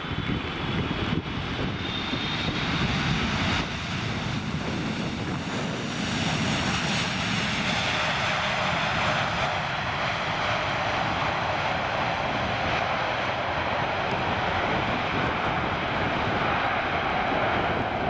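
Jet airliner engines, a steady loud rush with a faint high whine at first; the low rumble gives way to a brighter rushing sound partway through as the plane passes.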